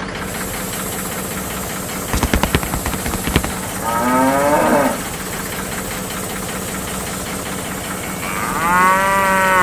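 Cattle mooing twice, a call of about a second starting some four seconds in and a second call near the end, over a steady engine-like hum. A few sharp knocks sound about two to three seconds in.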